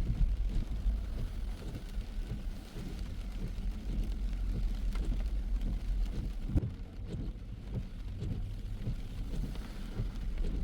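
Car driving on wet roads in the rain, heard from inside: a steady low rumble of road and engine noise with irregular thumps, and a faint hiss of rain and tyre spray.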